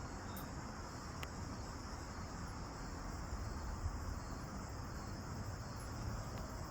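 Steady high-pitched insect chorus droning on without a break, with a couple of faint clicks.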